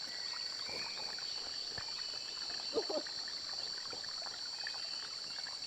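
Chorus of night insects trilling steadily on a high pitch. Faint scattered rustles and small splashy clicks sound beneath it.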